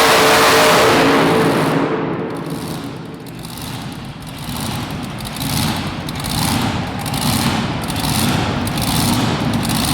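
Super modified two-wheel-drive pulling truck's engine at full throttle, then backing off after about a second and a half and running at lower revs with repeated throttle blips, as a pull ends.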